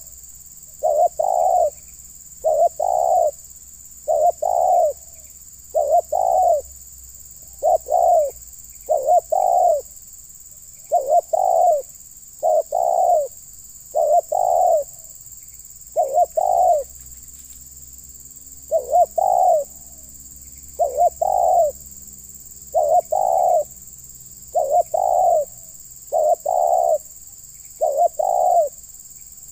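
Spotted dove (terkukur) cooing steadily, one short phrase of two or three notes about every two seconds.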